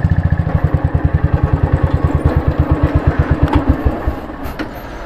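Motorcycle engine idling with a fast, even beat, then switched off about four seconds in.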